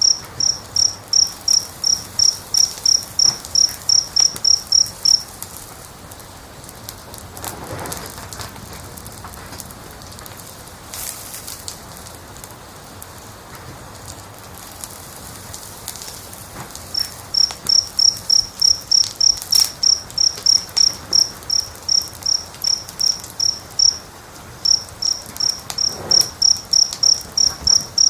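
A cricket chirping in a steady, even series of high chirps, about three a second, falling silent for about twelve seconds in the middle before starting up again. Underneath, a wood fire crackles faintly with scattered pops.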